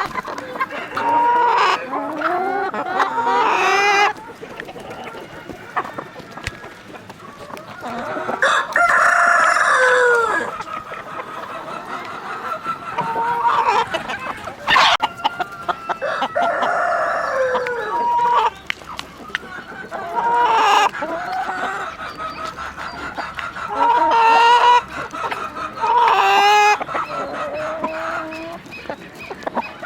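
Chickens clucking, with a rooster crowing, in repeated bouts of calls every few seconds.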